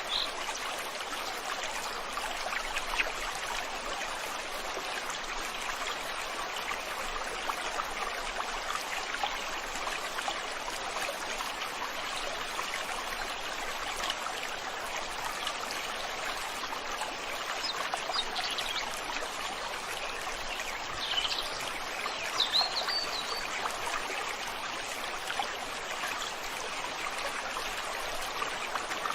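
Stream water flowing in a steady babble. A few short, high bird chirps come through it about two-thirds of the way in.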